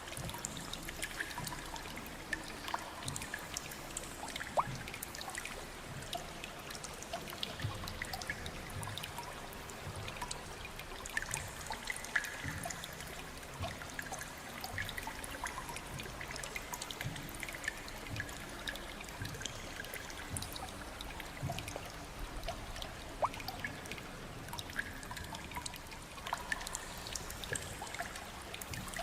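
Water trickling steadily, with many small drips scattered throughout.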